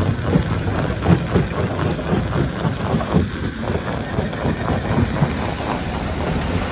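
Stone crusher running, a steady low mechanical rumble with dense, irregular knocking of rock being broken and tumbling through it.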